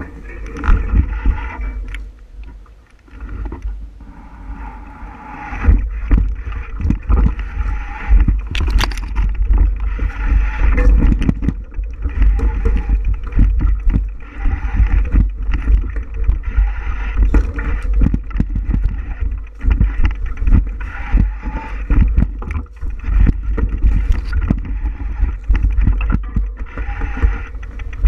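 Riding a bicycle over a rough trail: steady wind rumble on the microphone, with the bike and camera rattling and knocking over bumps in the surface.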